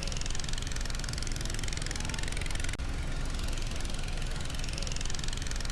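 Longtail boat engine running steadily while the boat cruises.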